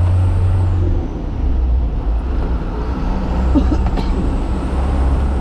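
Low, steady engine drone from a large vehicle, its deepest hum stepping down slightly about a second in.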